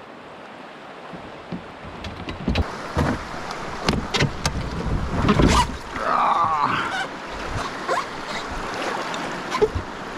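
Moving river water splashing around a kayak, with a string of sharp knocks against the hull and wind on the microphone.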